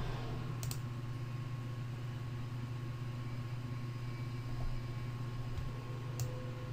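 Steady low electrical hum of a quiet room, with two faint computer mouse clicks, one about a second in and one near the end.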